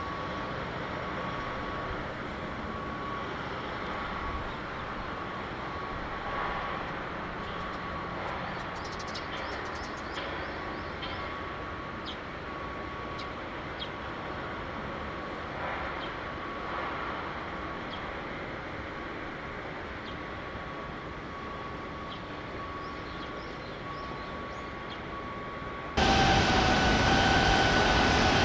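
Steady industrial background noise with a faint continuous high whine and a few light ticks. About 26 seconds in it cuts suddenly to a much louder rumble with whining tones.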